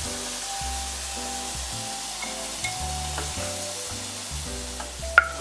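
Dhoka (fried lentil cakes) sizzling steadily in hot mustard oil in a kadai, with a spatula working in the pan as the fried pieces are lifted out. One sharp click sounds near the end.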